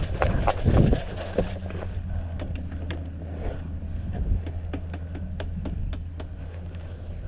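Running footsteps and gear clatter for about the first second, then a steady low hum with scattered faint sharp clicks.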